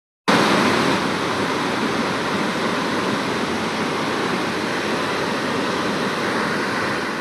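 Steady, loud rush of water, a dense even noise that cuts in abruptly about a third of a second in.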